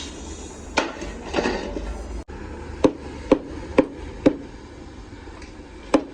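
Hand hammer blows in a truck repair workshop: a couple of knocks, then an even run of four strikes about two a second and one more near the end.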